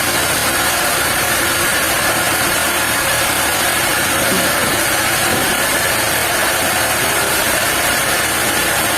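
Sawmill machinery running, a steady mechanical noise with a strong high hiss that holds at one level throughout.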